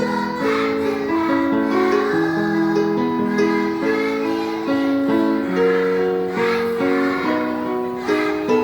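Young children's choir singing a song together in held, steady notes, accompanied by a plucked string instrument.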